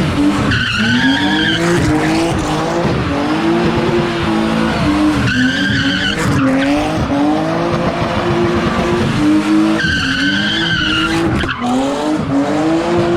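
A car engine revving hard and wavering up and down while its tyres spin and squeal on the pavement. The squeal comes in three loud stretches: about half a second in, about five seconds in, and around ten seconds in.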